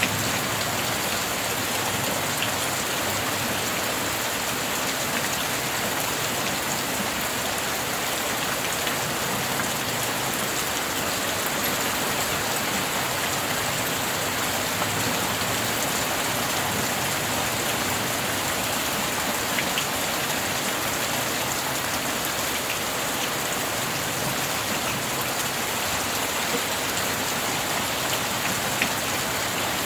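Steady rain falling: an even, unbroken hiss with a few faint drip ticks scattered through it.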